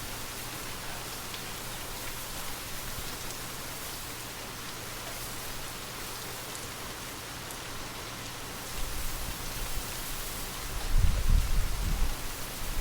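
Steady light rain falling, an even hiss of drops, with low gusts of wind swelling in during the last few seconds.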